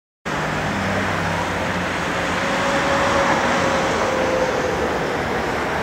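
Very long freight train hauled and banked by electric locomotives approaching: a steady running noise with a faint whine that holds one pitch through the middle seconds. It starts about a quarter second in, after a cut.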